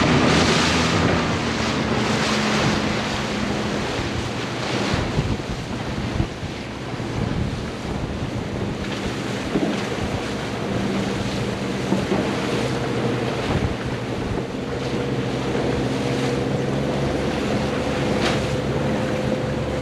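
Wind buffeting the microphone and water rushing and splashing past a moving boat on open water, with a steady low motor hum underneath.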